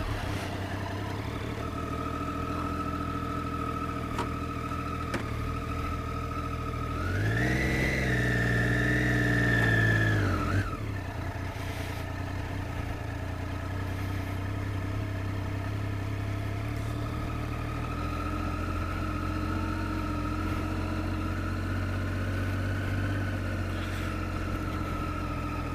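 2013 Triumph Daytona 675R's three-cylinder engine running at low revs. About seven seconds in it rises in pitch and loudness under a few seconds of throttle, then drops back abruptly and settles to a steady low running again.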